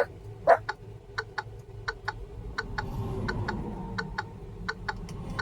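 Regular ticking, about three ticks a second, over a low steady hum, with a short louder sound about half a second in and a faint thin whine joining past the midpoint.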